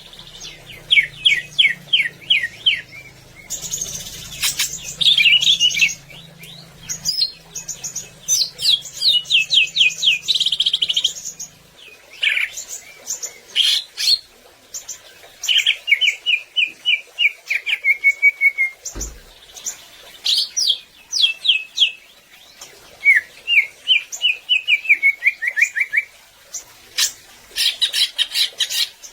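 Cucak ijo (green leafbird) singing loudly: phrases of rapid, quickly repeated chirping notes, some sweeping up and down, each phrase a few seconds long with short pauses between. A faint low hum sits under the first half, and there is a single soft thump a little past the middle.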